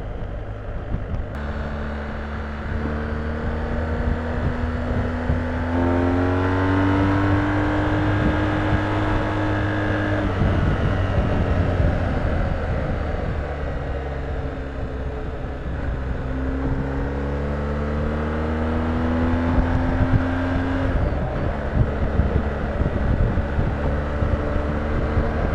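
BMW R1250GS boxer-twin engine running at road speed under steady wind noise. Twice the engine pulls harder with its pitch climbing, first about six seconds in and again around sixteen seconds in, and each time it drops back as the throttle eases.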